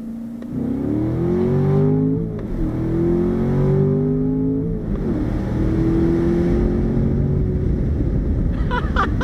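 2019 Corvette Grand Sport's 6.2-litre V8 under full-throttle acceleration with a manual gearbox: the engine note climbs, drops sharply at an upshift about two and a half seconds in, climbs again, drops at a second upshift about five seconds in, then rises more slowly and fades into road and wind noise near the end.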